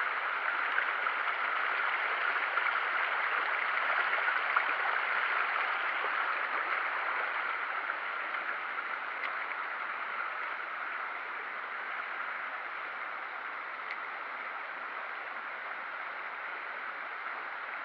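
Flowing river water, a steady rush that grows slightly quieter over the stretch.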